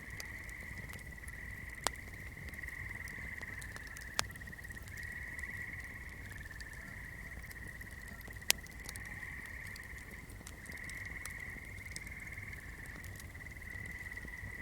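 Swamp night chorus: a steady, high, pulsing trill of calling creatures. Over it, fire crackling with faint ticks and three sharp pops, about two, four and eight and a half seconds in.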